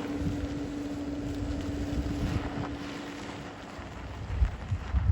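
Wind buffeting the microphone with gusty low rumble, under a steady hum that stops about three and a half seconds in; a couple of louder wind thumps near the end.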